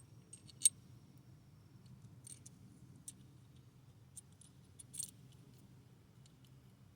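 Light metallic clicks and clinks of bolts and spacers being handled and test-fitted, irregular and brief, sharpest in the first second and again about five seconds in, over a faint steady low hum.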